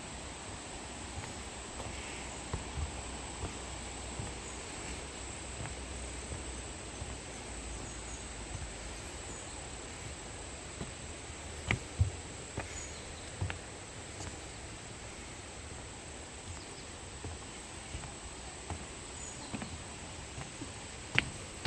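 Steady rush of a valley stream, with a constant high insect drone above it. A few sharp knocks about halfway through and again near the end.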